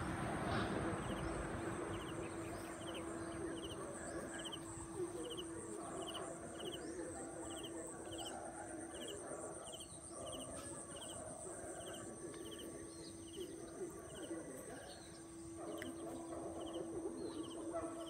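Bird chirping outdoors: a short chirp repeated about twice a second, over a steady high-pitched whine and a low steady hum.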